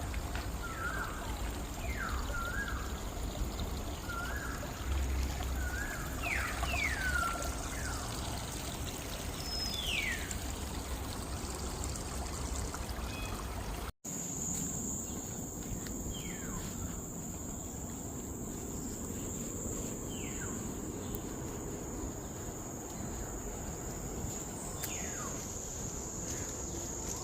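Water trickling, with birds giving short, falling chirps. After a cut about halfway through, a steady high-pitched insect buzz takes over, with a few more bird calls.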